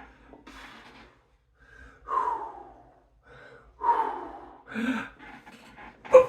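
A man gasping and breathing hard with effort through exercise repetitions, with a loud breath or grunt every second or so and heavy breathing between.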